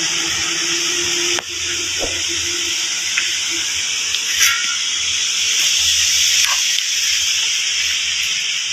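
Steady loud hiss over a faint low engine drone from a small dump truck labouring up a climb; the hiss breaks off for an instant about a second and a half in.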